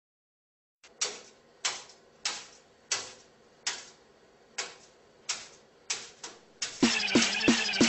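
A parrot hopping, each landing a sharp knock, about one and a half a second at a slightly uneven pace. Electronic music with a heavy beat starts near the end.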